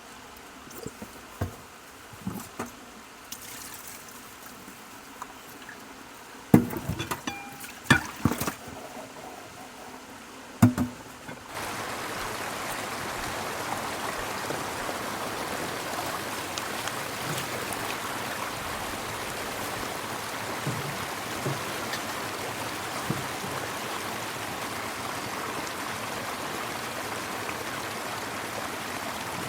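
Glacial meltwater river rushing steadily, jumping suddenly louder about eleven seconds in. Before that the rushing is fainter, broken by a handful of sharp knocks and clicks.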